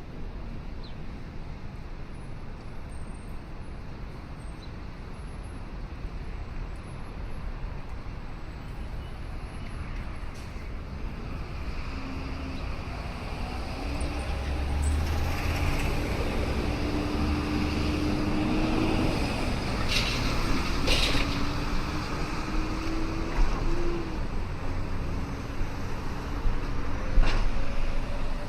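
An engine hum rising out of steady background noise and growing louder through the second half, with its pitch climbing near the end, and a few sharp clicks.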